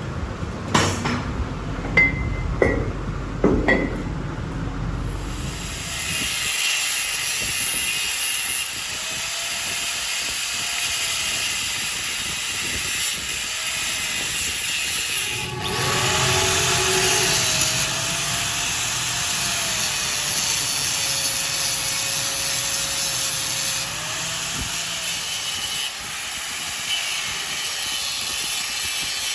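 Several sharp metal knocks in the first few seconds, then a steady hissing noise from a workshop machine starts and runs on, with a faint wavering whine in it.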